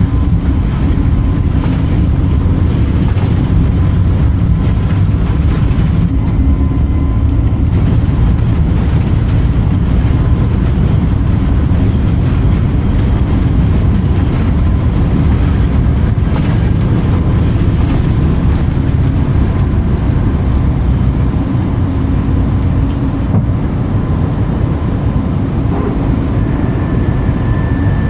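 Steady, loud rumble of an Airbus A320neo's engines and airflow heard inside the passenger cabin, with a faint high steady tone running through it.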